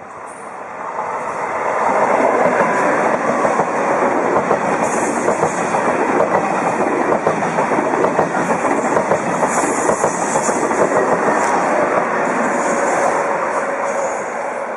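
High-speed train passing with a dense rushing rail noise. It swells over the first two seconds, holds steady and loud, then begins to ease off near the end.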